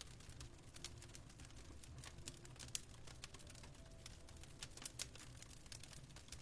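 Faint fireplace crackling: irregular sharp pops and snaps over a low, steady rumble.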